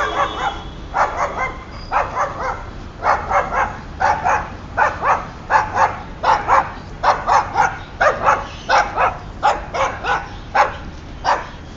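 Boxer dog barking over and over, about two barks a second, some in quick pairs.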